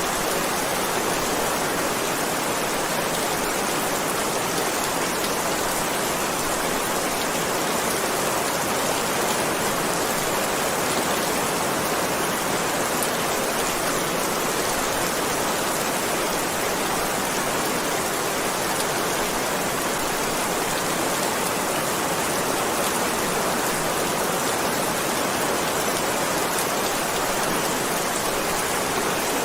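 Heavy rain falling in a steady, even hiss with no thunder or breaks.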